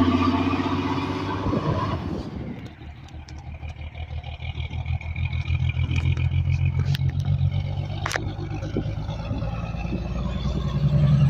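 Truck traffic: a loud engine passes close and fades about two seconds in, leaving a steady, pulsing engine drone with a few sharp clicks, which grows louder again near the end as another engine comes closer.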